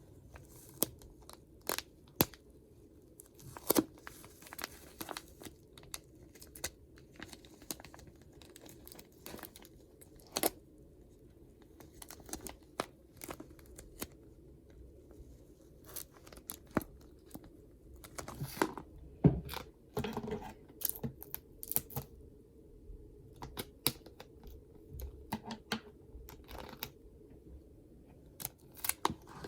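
Tape being pulled off the roll and torn, with the paper of a stuffed paper squishy crinkling as it is handled and taped shut. Irregular short crackles and rasps.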